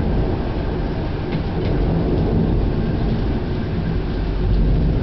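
Thunderstorm: a steady, loud low rumble that keeps going without a break.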